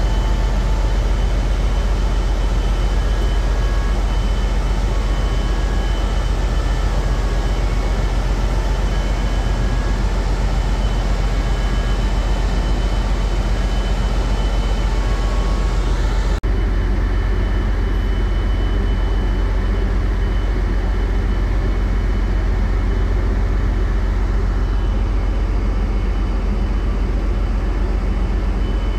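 Heavy marine diesel machinery running with a steady loud drone and hum. It breaks off for an instant about 16 seconds in, then carries on with less hiss on top.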